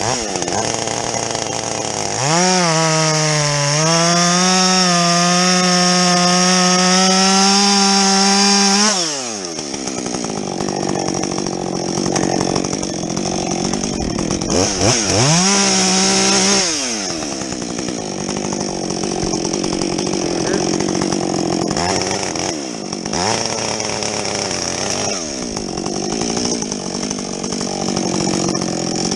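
Husqvarna 562XP two-stroke chainsaw with a modded muffler, bucking felled logs: opened to full throttle about two seconds in and held there for about six and a half seconds, then dropping back, opened up again briefly past the middle, and running at lower speed the rest of the time.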